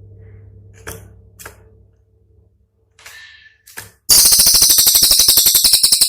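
Cililin songbird giving a loud, very rapid, sharp trill of about fifteen notes a second, starting about four seconds in. This is the piercing 'tembakan' (shot) phrase that keepers use as training song. Before it come a few faint short notes over a low hum.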